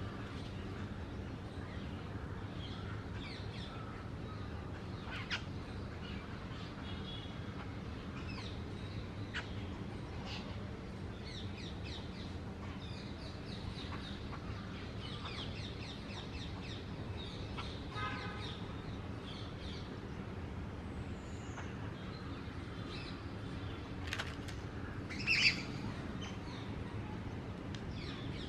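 Birds calling: scattered short chirps and harsh calls over a steady low hum, with one louder call near the end.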